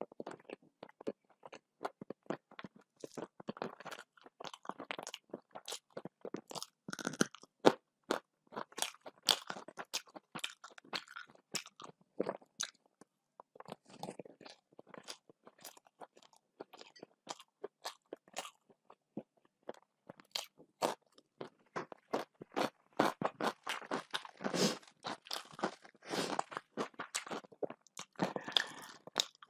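Close-up chewing of crunchy food with many sharp, irregular crunches: a mouthful of rice with beetroot stir-fry topped with peanuts, eaten by hand.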